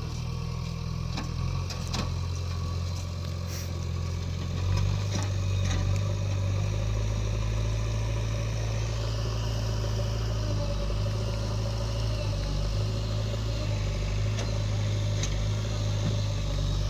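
Diesel engine of heavy earthmoving or farm machinery running steadily. About five seconds in, it picks up speed and gets louder, then holds there, with a few faint knocks in the first few seconds.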